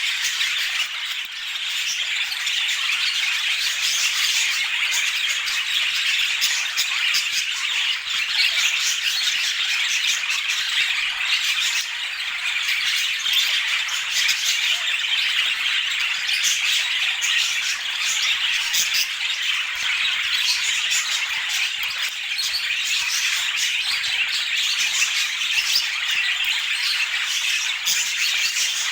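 Budgerigars chattering and squawking without pause: a dense, steady stream of quick overlapping chirps, clicks and squawks.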